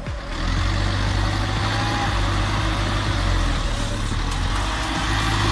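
A large truck's engine running steadily, a low droning hum under a haze of mechanical noise.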